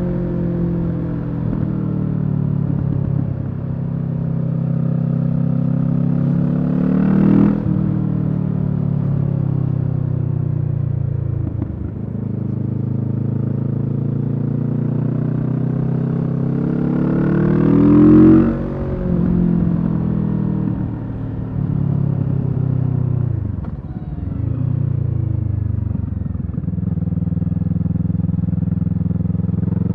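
Kawasaki Z650's parallel-twin engine through a Leo Vince EVO carbon exhaust, running under load. Twice the engine pitch climbs steadily to a loud peak and then drops suddenly as the throttle closes or a gear changes, with a few shorter dips between.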